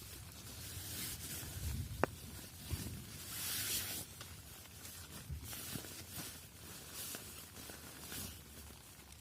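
Rustling and handling sounds: irregular scratchy rustles, a sharp click about two seconds in, and a longer hiss around three to four seconds in.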